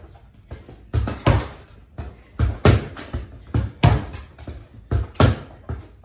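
Soccer ball being passed against a wall in a small room and received back, giving sharp thuds that come mostly in pairs: the kick or touch, then the ball striking the wall. There are about four such pairs, a little over a second apart.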